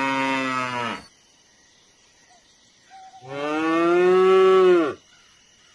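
Cow mooing twice: one call ends about a second in, then a longer, louder moo starts about three seconds in and drops in pitch as it ends.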